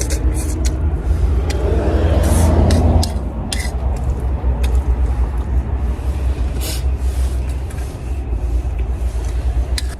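Strong wind buffeting the microphone as a heavy, continuous low rumble that gusts louder for a second or so early on. A few light clicks are scattered through it.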